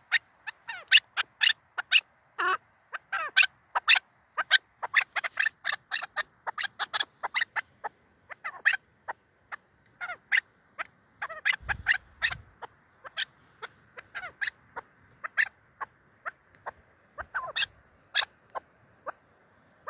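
Chukar partridge calling: a long run of short, sharp call notes in irregular bursts, some of them sliding in pitch. There are a couple of low thumps about twelve seconds in.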